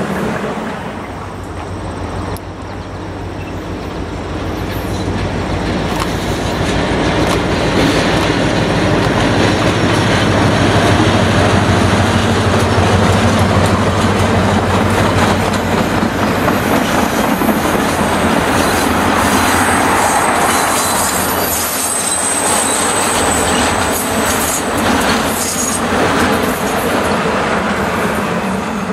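Passenger coaches of a diesel-hauled train rolling past on steel rails: a steady rolling rumble with the clickety-clack of wheels over rail joints. A low locomotive engine rumble fades out about halfway through, and a thin, high wheel squeal comes in the middle stretch.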